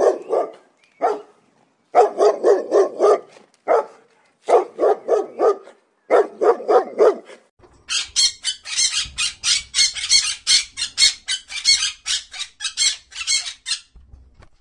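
A dog barking in quick runs of barks for the first half. Then, about halfway through, a green parakeet takes over with a long string of high-pitched squawks, about four a second.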